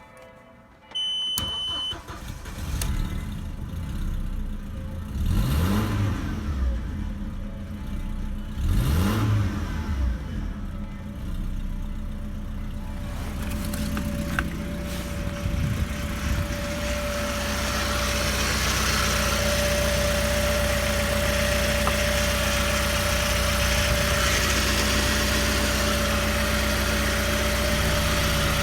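Audi A4 B5 1.6 AHL four-cylinder petrol engine starting about a second in, revved briefly twice, then settling into a steady idle with a constant whine over it in the second half.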